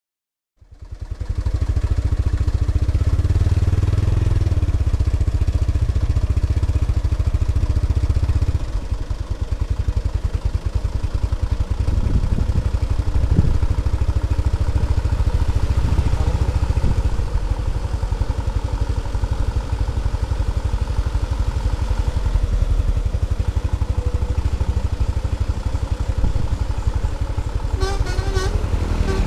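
Large truck engine running loudly with a low, steady throb, dropping a little in level about eight seconds in.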